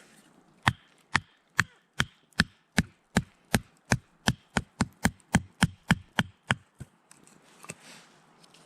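Rapid chopping: about seventeen sharp strikes of a blade on wood, some two to three a second and speeding up slightly, then stopping about seven seconds in, followed by one softer knock.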